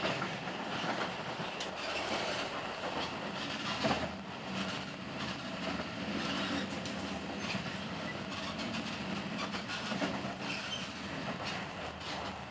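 A moving passenger train heard from inside the carriage: a steady rumble of the running gear, with the wheels clacking over rail joints now and then and a sharper knock just before four seconds in.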